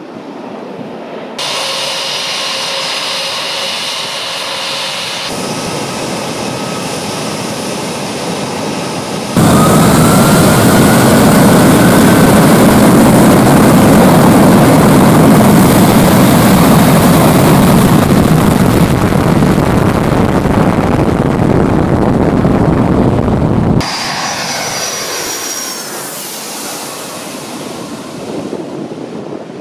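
Jet airliner engines: a high turbine whine, then a sudden, very loud steady roar of jet blast with a rising whine at its start, lasting about fourteen seconds, before the sound drops back to a quieter whine. The sound changes abruptly several times.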